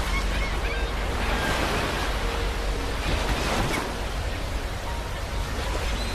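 Ocean surf: waves breaking and washing up a beach as a steady rushing noise, swelling a little about a second and a half in and again past three seconds.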